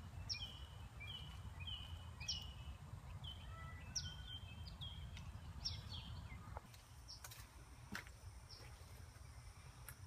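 A bird chirping: a run of short, high chirps, each dropping quickly in pitch and then holding briefly, about two a second, fading out a little after halfway. Under them there is a low rumble, and near the end a few sharp clicks.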